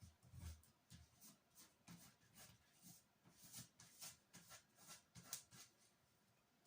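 Faint, irregular scraping strokes, about two or three a second, of plasticine being rubbed and smeared onto cardboard by hand.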